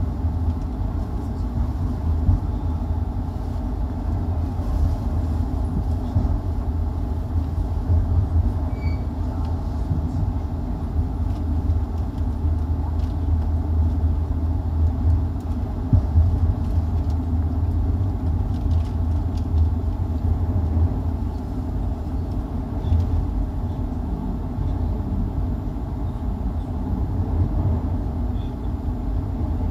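Steady low rumble of a 25G passenger coach running on the rails, heard inside the coach, with a few brief louder knocks.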